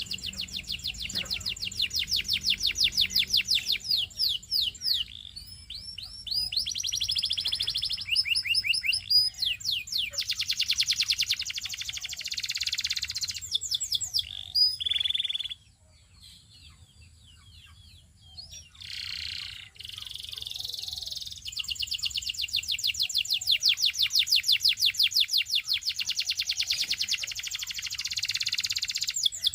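Domestic canary singing: long, rapid trills of repeated high notes, one tour after another, with a break of a few seconds just past the middle before the song resumes.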